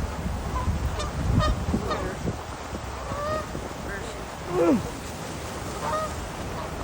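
Birds calling in a series of short calls, the loudest about four and a half seconds in, sliding down in pitch.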